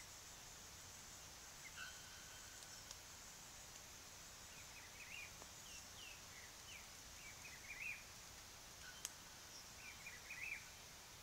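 Faint, short twittering chirps of small birds in several quick clusters over a steady high hiss, with one sharp click about nine seconds in.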